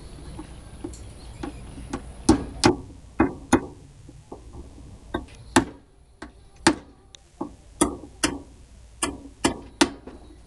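Hammer driving nails into the wooden boards of a top bar beehive: a dozen or so sharp strikes, often in quick pairs, with short pauses between runs.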